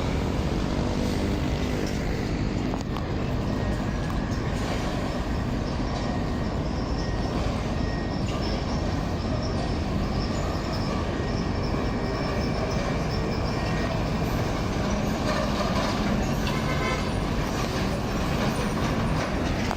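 Steady roadside traffic noise, with heavy truck engines running as they pass.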